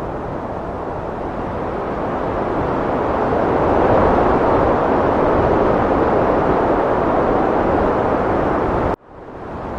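Heavy wind blowing in a continuous rush, swelling in a gust about four seconds in. Near the end it cuts out abruptly for a moment and fades back in, the seam where the recording loops.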